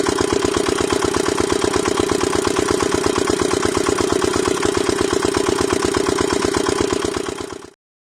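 Small single-cylinder diesel engine of a miniature water pump running steadily at idle with a rapid, even beat, fading and cutting off about seven and a half seconds in.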